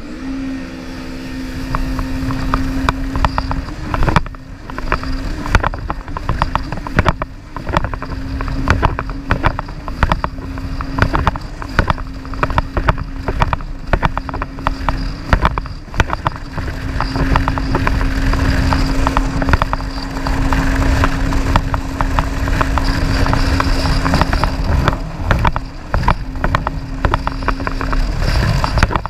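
Jet ski engine running hard at a steady pitch, dipping briefly a few times as the throttle eases, with rough crackling noise over it.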